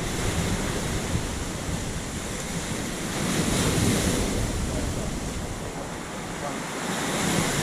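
Steady rush of water mixed with wind buffeting the microphone, swelling louder about three to four seconds in and again near the end.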